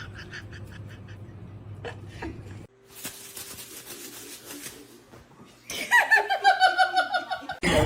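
A person laughing loudly in a quick run of pulses in the last two seconds, after quieter stretches of low hum and faint hiss.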